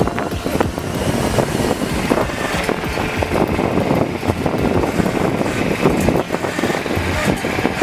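Heavy truck running, a dense, steady mechanical noise with frequent clattering.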